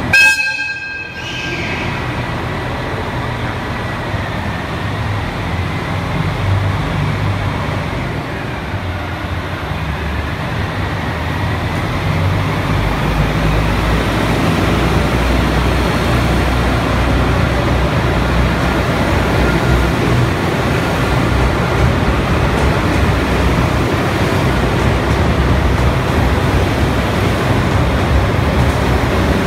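JR Hokkaido Super Kamui limited express electric train pulling out of the platform. A short, loud sound with clear tones opens it, then the rumble of wheels and running gear builds and holds steady as the carriages pass, with a faint whine that slides down and back up in pitch.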